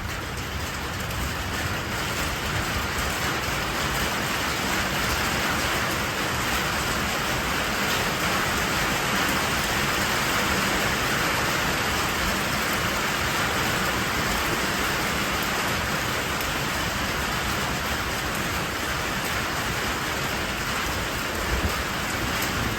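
Rain falling on a metal roof: a steady, even hiss that holds throughout.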